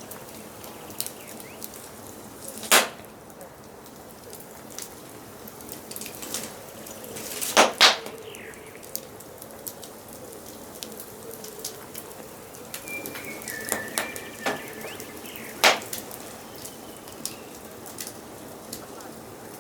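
Wood fire crackling with a steady hiss and scattered small ticks, broken by a few loud pops: one about three seconds in, a quick double pop near eight seconds and another near sixteen. Forest birds call faintly in the background, with a short whistled call a little past the middle.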